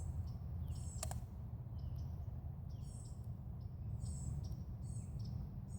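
Small birds chirping in short, high, repeated phrases about once a second over a steady low rumble, with a single sharp click about a second in.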